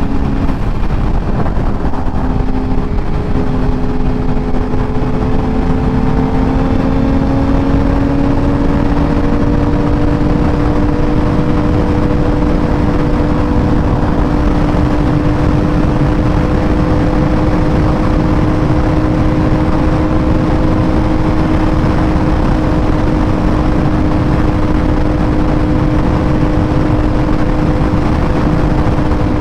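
Sportbike engine running at a steady cruise, its pitch climbing gently over the first several seconds and then holding, under a steady rush of wind and road noise.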